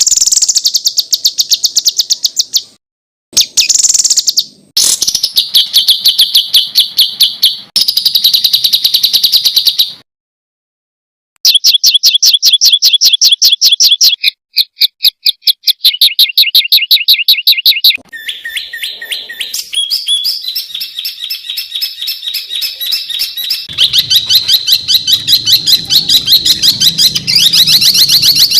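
Songbird song edited together from several recordings: fast runs of sharp repeated notes, the rapid-fire 'tembakan' phrases, each phrase at a different pitch and cut off abruptly by short silences.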